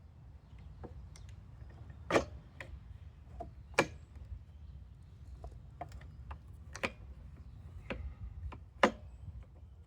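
Irregular knocks and clicks of boards and tools being handled during table assembly, with four louder knocks spread a couple of seconds apart.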